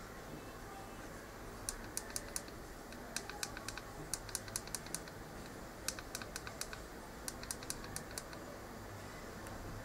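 Light, sharp clicks in quick irregular runs of several per second, typing-like, over a steady low hum.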